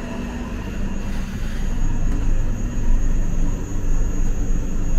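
Steady low rumble and hum around a stationary passenger train at a station, with a faint steady high whine; the rumble grows a little louder about two seconds in.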